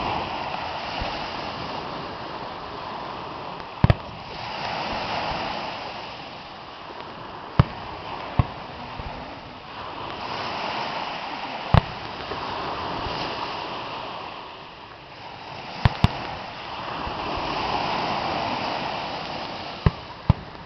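Fireworks bursting with sharp bangs about every four seconds, sometimes two in quick succession, over a continuous wash of noise that swells and fades.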